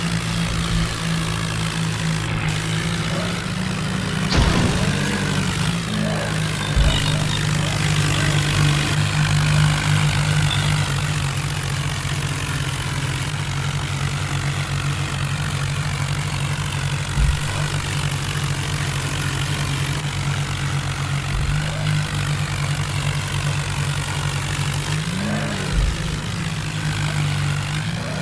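Tractor engine running steadily with a deep, continuous drone, its pitch briefly rising and falling near the end.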